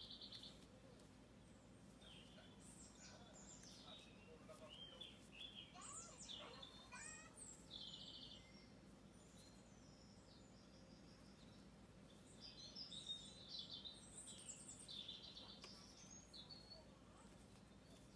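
Faint birdsong: several birds chirping and trilling in short, varied phrases, with a sparser stretch in the middle.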